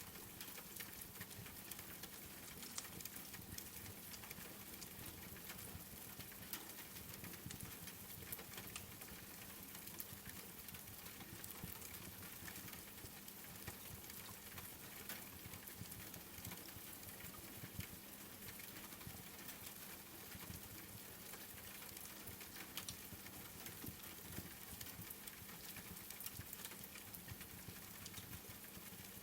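Steady rain patter with frequent small crackles and pops from a wood fire scattered through it, faint and unchanging.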